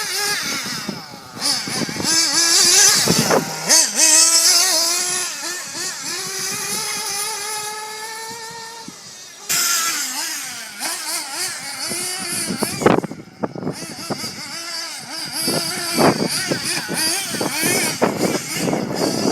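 Team C Stoke N 1/8 nitro buggy's small two-stroke glow engine running hard, its pitch rising and falling again and again as the buggy accelerates and slows around the track.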